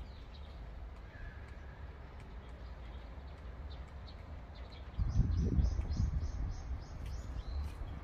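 A small bird chirping a quick run of short high notes, about four a second, over wind rumbling on the microphone. About five seconds in a gust makes the wind rumble suddenly much louder.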